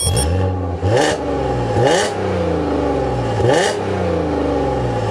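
Audi B8 S4 Avant's supercharged 3.0 TFSI V6, breathing through an Armytrix cat-back exhaust, idles and is blipped three times. Each rev rises sharply and drops straight back to idle.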